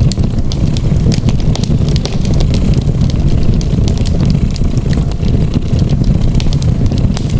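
Wood fire crackling, with many small sharp pops scattered throughout, over a steady low rumbling cat purr.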